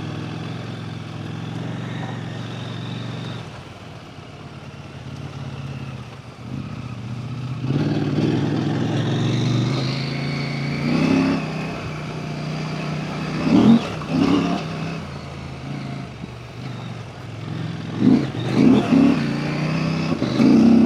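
Husqvarna Norden 901 adventure motorcycle's parallel-twin engine running at low revs off road. It gets louder about eight seconds in, with several short bursts of throttle in the second half.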